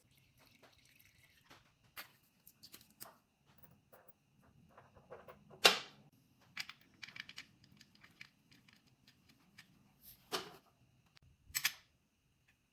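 Light, scattered clicks and taps of hand tools and parts being handled during motorcycle oil-change work, with three louder knocks about six, ten and eleven and a half seconds in. A faint steady high tone runs underneath.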